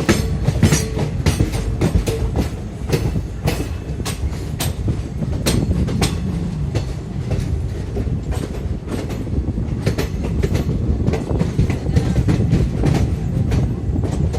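Train rolling along the rails: a steady low rumble with repeated sharp clickety-clack of wheels going over rail joints, a few clicks a second.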